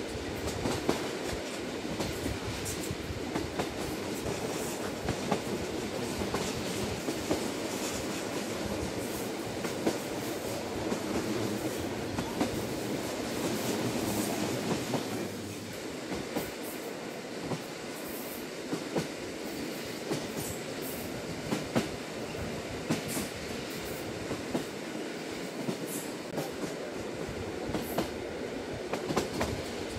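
Interior running noise of the Lilac limited express electric train, heard from inside the carriage. A steady rumble of wheels on rail with frequent sharp clicks and knocks from the track, easing slightly about halfway through.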